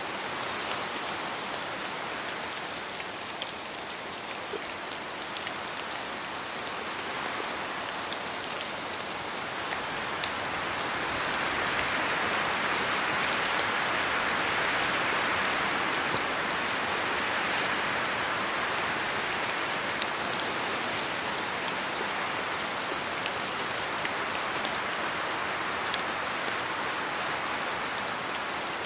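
Steady rain falling, with many small drop ticks scattered through it; the rush swells louder for several seconds around the middle.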